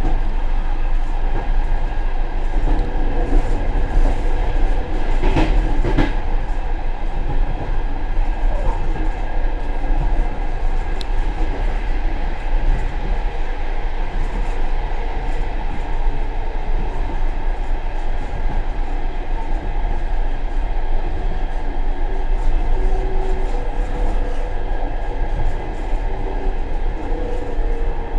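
Express passenger train running, its wheels rumbling steadily on the rails as heard from inside the rear vestibule of the last car, with a couple of sharp knocks about five and six seconds in.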